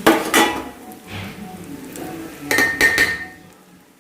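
Metal spoon clinking and knocking against a cooking pan, a cluster of clinks at the start and another with a short metallic ring about two and a half seconds in, as beaten rice is handled for roasting in ghee.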